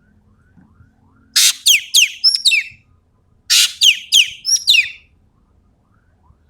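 Sumatran ekek keling calling in two loud bursts about two seconds apart, each a rapid run of roughly five sharp, downward-sweeping notes.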